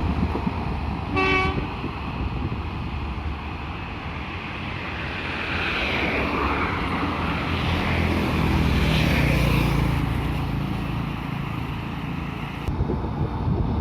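Steady rumble of vehicles in motion, with a short horn toot about a second in.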